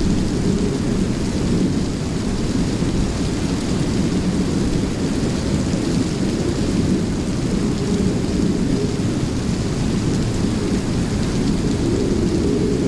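Rainstorm: steady heavy rain over a constant low rumble, with no separate thunderclaps.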